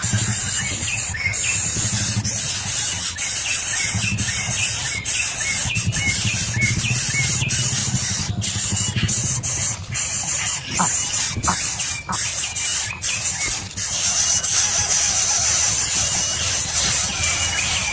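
Young birds squealing shrilly at the nest, with short repeated chirps and sharp clicks, over a steady high hiss.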